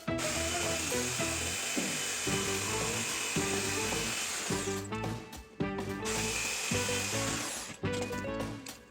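A power tool running in two spells, about five seconds, then a short stop and about two seconds more, with background music throughout.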